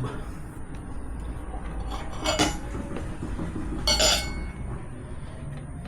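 Steel tire irons clinking against the wheel rim as a tight tire bead is levered on: two sharp metallic clinks with a brief ring, about two seconds and four seconds in.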